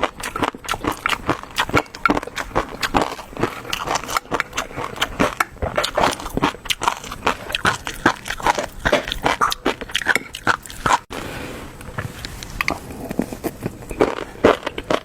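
Close-miked eating: rapid wet clicking and crackling of chewing, thinning out for a couple of seconds about eleven seconds in before picking up again.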